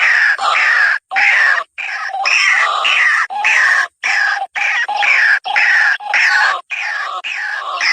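White-breasted waterhen calls: loud, harsh, repeating croaking notes in a steady chorus, cutting out abruptly to silence several times for a fraction of a second.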